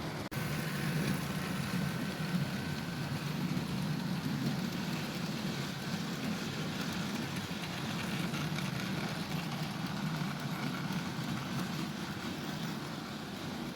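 Bachmann model diesel locomotives running on a model railway, a steady rumble of their small electric motors and wheels on the track, with one sharp click just after the start.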